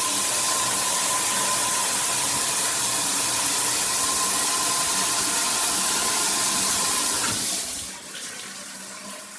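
Water spraying steadily from an 8-inch rainfall shower head at full pressure, dropping to a quieter, patchier splash near the end.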